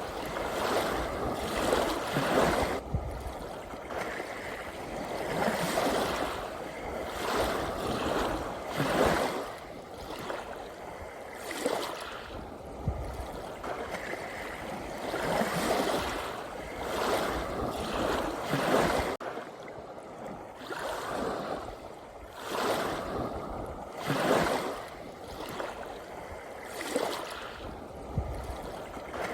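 Ocean waves washing onto a shore, a steady surf hiss that swells and fades every two to three seconds.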